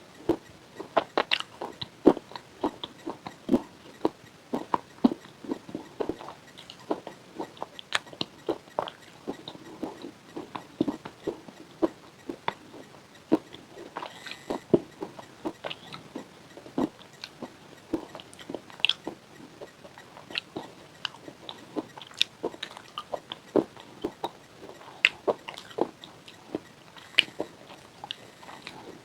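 Close-up crunching of hard white chips with a pink coating being bitten and chewed: irregular sharp cracks, several a second, throughout.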